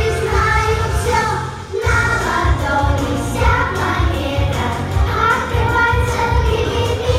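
Children singing a pop song over a backing track with a steady bass beat.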